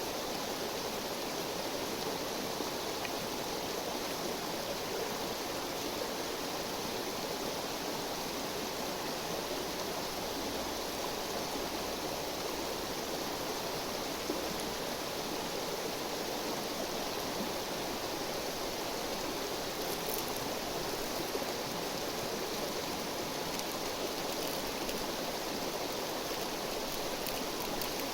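River water flowing, a steady even rush with no change in level. A few faint high ticks come through in the last few seconds.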